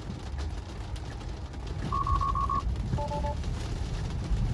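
Tesla cabin alert chimes over low road rumble: about two seconds in a quick run of five high beeps, then a short three-pulse lower two-note chime, as Autopilot is disengaged. The rumble grows a little louder as the car pulls away.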